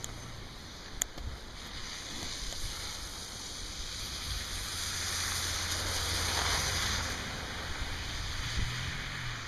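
A vehicle passing on a snowy road: a rush of tyre noise that swells to a peak about six seconds in and then fades, over a steady low hum, with one sharp click about a second in.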